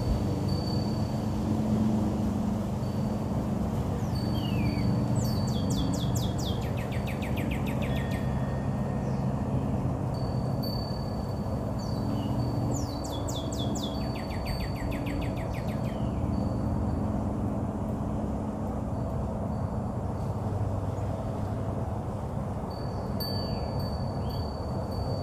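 Birds singing, with two rapid high trilled phrases and a few short falling notes, over a steady low rumble of background noise.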